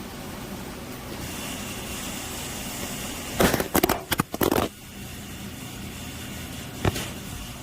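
A steady background hum, broken about three and a half seconds in by a quick run of loud knocks and rustles lasting about a second, and one more short knock near the end.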